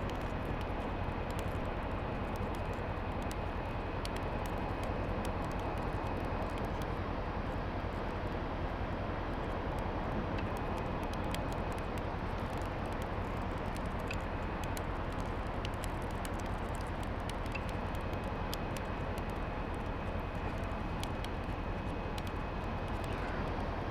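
Kontiki longline winch running steadily as it winds in the mainline, a constant mechanical drone with a faint high whine that comes and goes.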